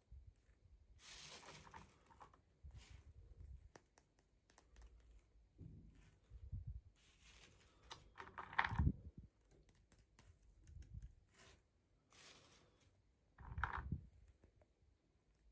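Toy packaging being handled and opened: intermittent crinkling and rustling of plastic and cardboard, with small clicks and a thump about nine seconds in.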